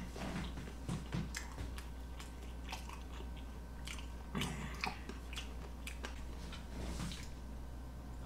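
Close-miked mouth sounds of a person chewing sushi: soft, wet smacks and scattered small clicks.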